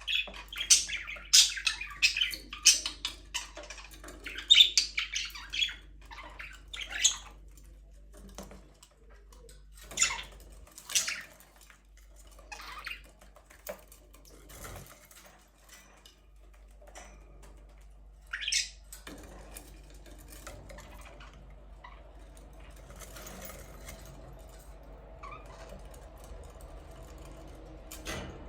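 Budgerigars chirping and squawking: a busy burst of rapid chatter for the first several seconds, then only scattered single calls, over a faint steady hum.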